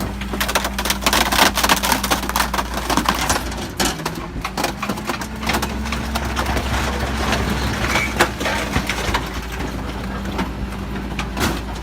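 Garbage truck compactor crushing waste: a dense run of cracking and snapping over the steady hum of the truck's engine.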